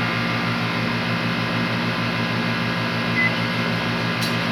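Panasonic microwave oven running with a steady low hum, on a test run after its burned door interlock micro switch was replaced.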